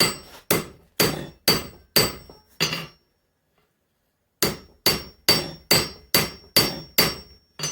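Hand hammer striking hot steel on an anvil while drawing out the spring-steel cutting-edge piece for an axe. Six blows about two a second, each with a short metallic ring, a pause of about a second and a half, then seven more at the same pace.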